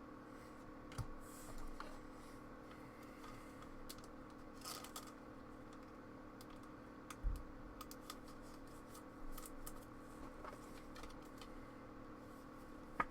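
Faint scattered clicks and light handling noises of trading cards and packs being shuffled and set down, with a soft thump about seven seconds in, over a steady low background hum.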